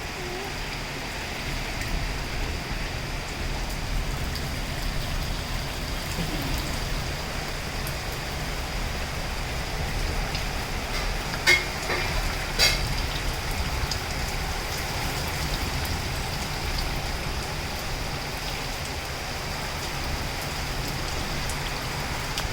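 Heavy rain falling steadily, a constant hiss of rain with a low rumble beneath it. About halfway through, two sharp knocks come a little over a second apart.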